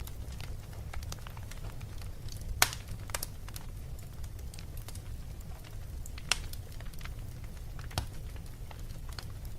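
Fire in a fireplace crackling, with irregular sharp pops over a steady low rumble. The loudest pop comes about two and a half seconds in, and smaller ones follow near six and eight seconds.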